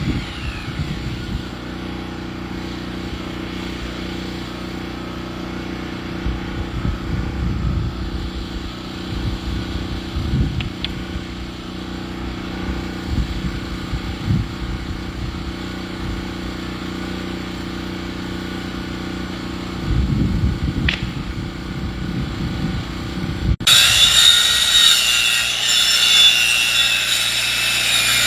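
Sawmill running, its engine humming steadily as it cuts through a log, with irregular knocks. About 24 s in, the sound changes abruptly to a brighter, higher cutting whine with a wavering pitch.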